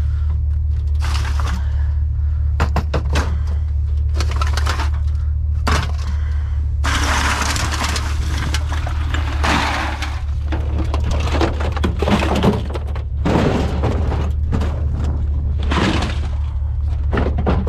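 Rummaging through discarded junk by hand: irregular clattering, knocking and rustling as items are moved and handled, with a longer stretch of rustling about seven seconds in, over a steady low hum.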